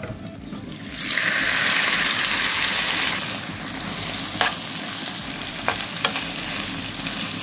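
Raw prawns sizzling in hot oil in a non-stick frying pan. The sizzle jumps up about a second in as they hit the oil, then settles to steady frying, with a few sharp clicks of a utensil stirring against the pan.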